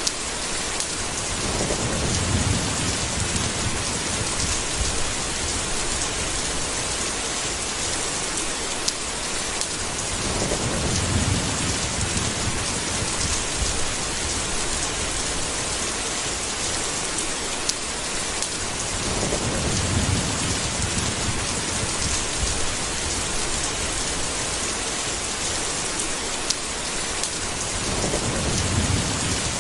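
Steady heavy rain falling, with a low rumble of thunder swelling and fading four times, about every nine seconds.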